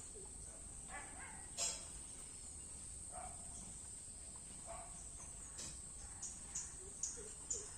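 Steady high-pitched drone of crickets, with scattered faint chirps and one click. Near the end a series of short, sharp chirps begins, about three a second.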